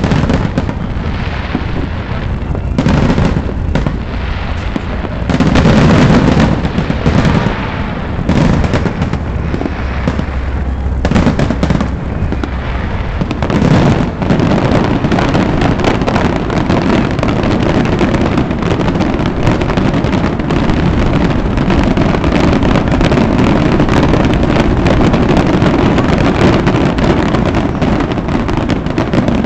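Fireworks bursting overhead. Separate bursts come in the first half, then run together into a continuous barrage from about halfway through.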